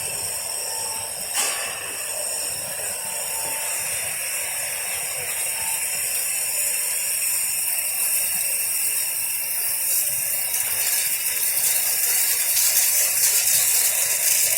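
Microwave powder drying and sterilizing machine running: a steady high hiss with several thin whining tones. A single click comes about a second and a half in, and the hiss grows louder over the second half.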